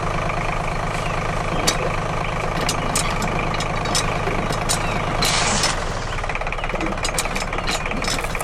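Small engine of a miniature DIY tractor running steadily with a knocking clatter of sharp ticks. A brief loud hiss comes about five seconds in, after which the low engine drone drops away.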